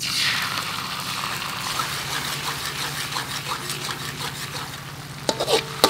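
Chili sauce hitting hot oil and minced garlic in a steel wok: a loud sizzle that starts suddenly, then settles into a steady crackle as it is stirred with a metal ladle, with a few sharp clinks of the ladle against the wok near the end.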